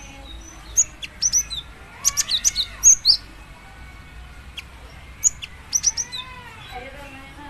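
Female cinereous tit (gelatik batu) giving clusters of sharp, very high chirps, the call a female uses to summon a male. Softer, lower sliding whistles sound underneath.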